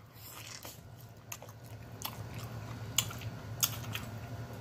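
Close-miked chewing of a bite of fried chicken: soft crunches of the breaded crust and short wet mouth clicks, a few each second.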